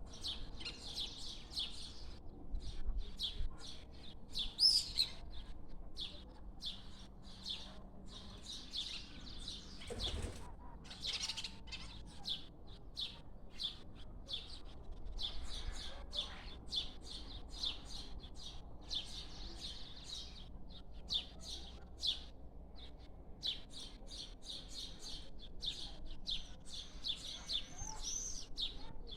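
Small birds chirping and twittering continuously, many short, high calls in quick succession, with a few gliding notes. A brief thump about ten seconds in.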